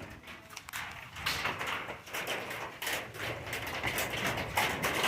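Scattered clicks and knocks over a hiss of heavy rain that builds and grows louder near the end.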